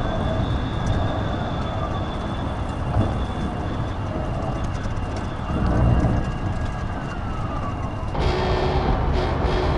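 Police car siren wailing slowly up and down under heavy road and engine rumble from a patrol car at speed, with an abrupt change in the sound about eight seconds in.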